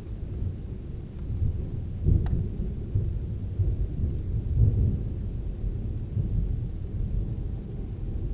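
Thunder rumbling in a long, continuous roll that swells about two seconds in and again around four and a half seconds.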